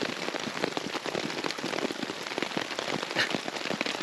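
Heavy rain falling on a tarp shelter overhead and on waterlogged ground: a dense, steady patter of drops.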